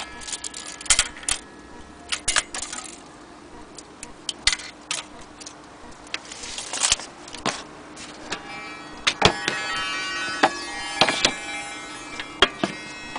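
Small metal clock parts being handled, giving irregular clinks and short rattles over a faint steady hum.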